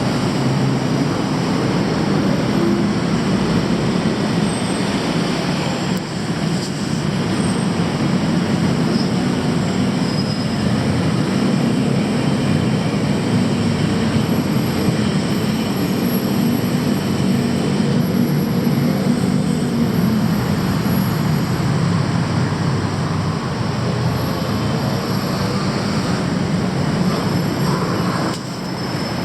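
Loud, steady rumble of vehicles, with faint high squealing tones near the end.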